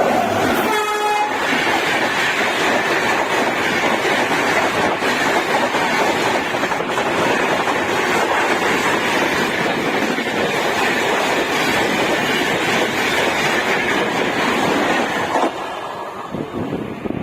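Passenger train running at speed on the rails: a steady rushing rumble of wheels and track. A short horn blast sounds about a second in, and the noise eases somewhat near the end.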